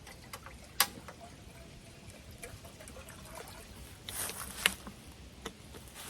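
Small clicks and knocks of cookware and utensils being handled, with a sharp click about a second in, a brief rustle a little after four seconds and another sharp click just after it.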